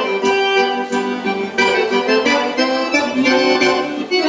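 Accordion (gaita) playing a gaúcho dance tune with band accompaniment and a steady beat of about two strokes a second.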